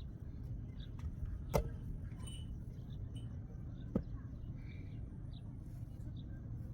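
Two sharp knocks, about two and a half seconds apart, over a steady low rumble.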